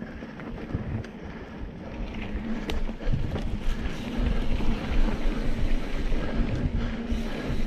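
Mountain bike riding over a dirt trail: wind buffeting the rider's camera microphone over tyre rumble and the odd sharp rattle of the bike, growing louder about halfway through as the bike picks up speed.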